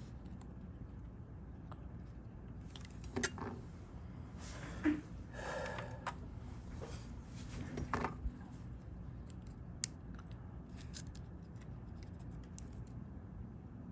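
Small metal hand tools clicking and tapping against a phone's parts and the workbench during a repair, with a short rustling scrape about five seconds in.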